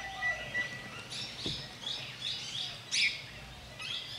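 Small forest birds calling. A short held high whistle comes first, then a quick run of short high chirps, a few a second, with one sharper call about three seconds in.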